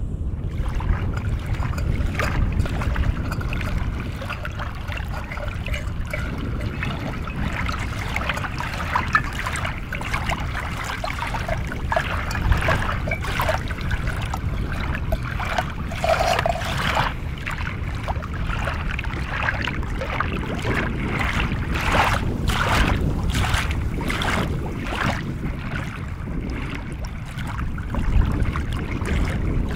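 Wind buffeting the microphone in a steady low rumble, with irregular crisp ticks and crackles through the middle and later part.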